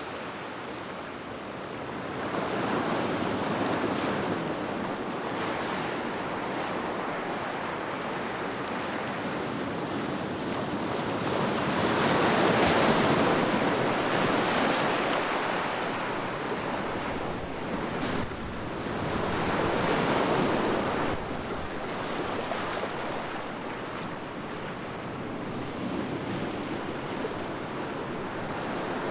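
Sea waves washing onto a shore in slow swells, the loudest breaking about halfway through and another a few seconds later, with some wind noise on the microphone.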